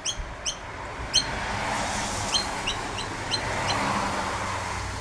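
A bird giving a series of short, sharp calls, about eight in all, over a steady hiss.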